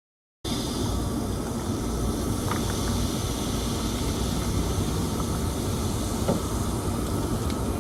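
Steady rushing noise with a heavy low rumble, cutting in abruptly about half a second in.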